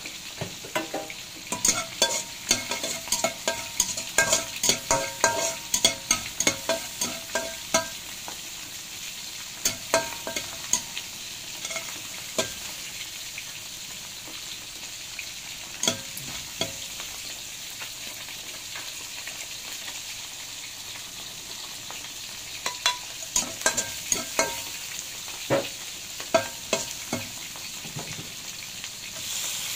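Chopped garlic and chili sizzling in oil in a wok, with a metal spatula scraping and clanking against the wok in quick bursts of stirring during the first eight seconds or so and again near the end.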